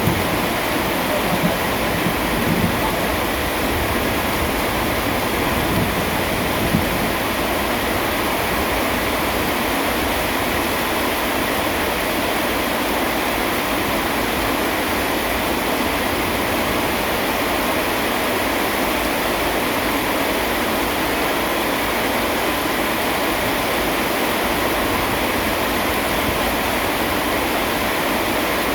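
Steady heavy rain, an even dense hiss, with a low rumble of distant thunder dying away in the first few seconds.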